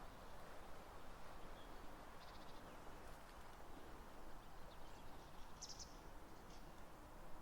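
Faint outdoor ambience with a few short, high bird chirps, one about two seconds in and a clearer one near six seconds.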